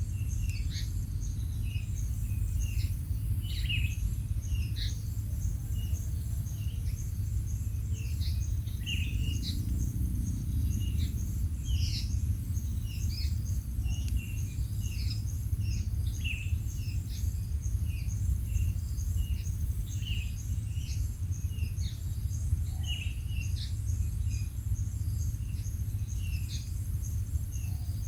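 Birds giving many short, high chirps at irregular intervals over a steady, even high-pitched insect trill, with a constant low rumble underneath.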